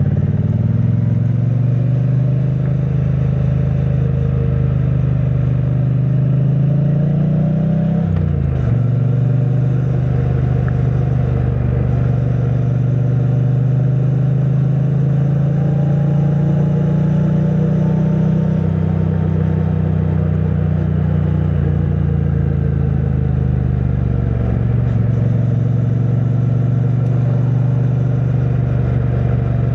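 2022 Triumph Bonneville T100's 900cc parallel-twin engine through the stock exhaust, heard while riding. The engine note climbs for a few seconds, then drops sharply in revs about eight seconds in and settles into a steady cruise with slow rises and falls in pitch.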